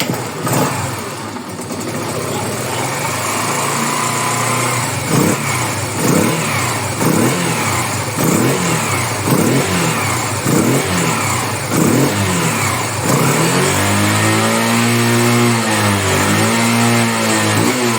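Yamaha 125 cc single-cylinder motorcycle engine, running with its balance shaft removed, being revved in quick throttle blips about once a second. Near the end come two longer revs that rise and fall.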